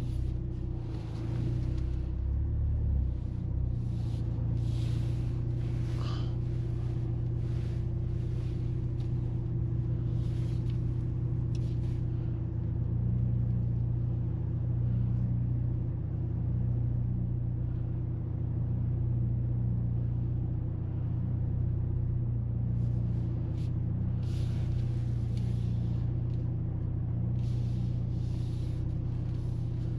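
Steady low drone of the Mercedes-AMG GLC 43 Coupe heard inside the cabin as the car moves, its turbocharged four-cylinder engine running, with short rushes of hiss coming and going.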